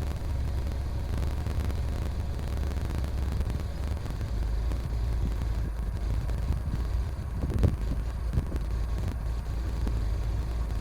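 Mercedes-Benz GLA 250's turbocharged 2.0-litre four-cylinder idling steadily while it warms up after a cold start.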